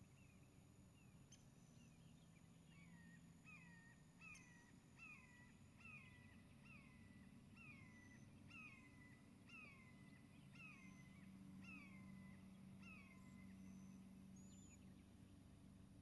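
A bird calling faintly: a run of about a dozen short, downslurred notes, roughly one a second, over a low steady background rumble.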